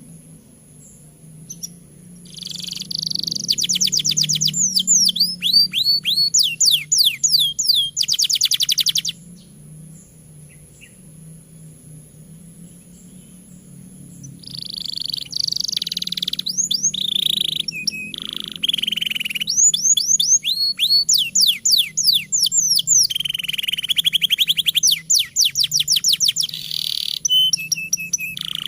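Domestic canary singing energetically in long phrases of rapidly repeated notes and downward-sweeping trills, in two long bouts with a pause of about five seconds between, over a low steady hum.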